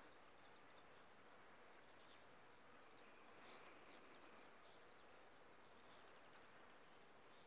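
Faint songbird chirps and short calls, strongest about three and a half to five seconds in, over a steady low hiss.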